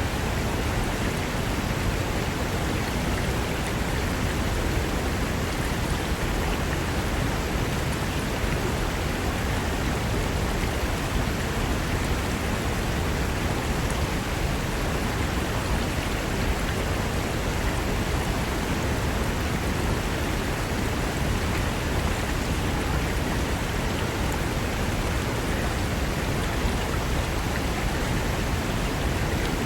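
Fast-flowing mountain river rushing over rocks: a steady, dense wash of water noise.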